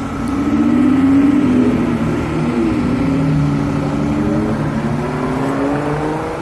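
A motor vehicle engine running, its pitch dipping and then rising slowly and steadily as it gains speed.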